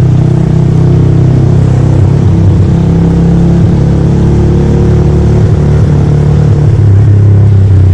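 Italika Black Bird motorcycle engine running steadily under way, its pitch shifting a little.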